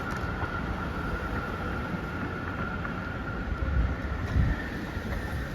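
Street vehicle running by with a steady high whine over a low rumble, and wind buffeting the microphone.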